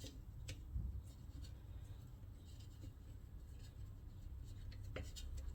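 Faint clicks and light rubbing of small metal parts being handled while bolts are fitted, over a low steady room hum.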